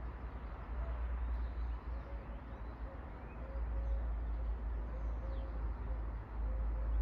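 Outdoor ambience: a bird repeats short, low, even-pitched calls over a steady low rumble, with faint high chirps from other birds.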